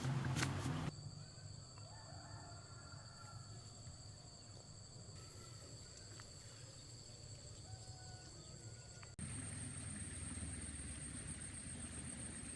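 Insects trilling steadily at a high pitch, with a few short bird chirps. About a second in, a low rumble stops. The insect tone jumps higher in an abrupt change about nine seconds in, and the rumble returns.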